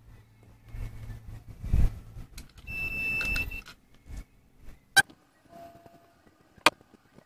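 Small parts and tools handled on a workbench while a replacement thermal fuse is picked up: rustling, a thump about two seconds in, a brief high steady tone lasting about a second, then two sharp clicks near the end.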